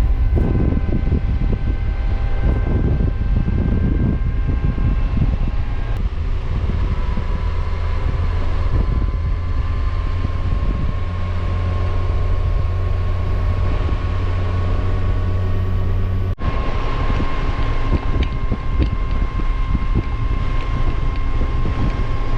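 Motorcycle riding at steady speed: wind rushing over the microphone with a steady engine hum underneath, with a brief drop about sixteen seconds in.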